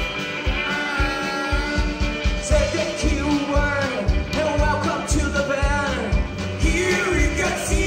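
Rock music with a sung vocal over a steady drum beat of about two hits a second.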